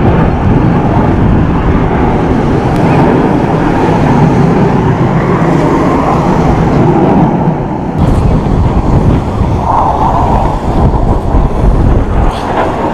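Loud, rumbling jet roar of the Blue Angels' F/A-18 Hornets flying past the show, with a sudden break about eight seconds in.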